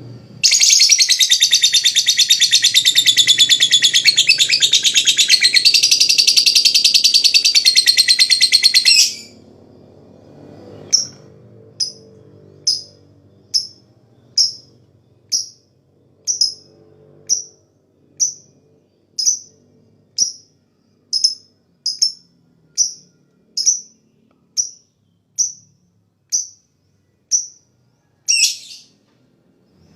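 Lovebird's long, loud, rapid rattling chatter ("ngekek panjang"), lasting about eight seconds. After a short pause it gives a run of short single chirps ("ngetik"), about one a second, and a slightly longer call near the end.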